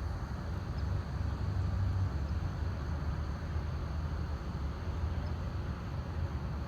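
A steady, low outdoor rumble with no distinct events.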